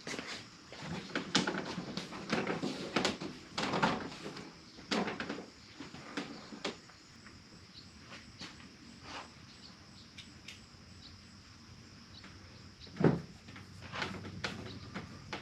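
Irregular clicks, knocks and rattles of hand work on hard parts, dense for the first several seconds. Fainter scattered ticks follow, then one louder knock about 13 seconds in and a few more clicks.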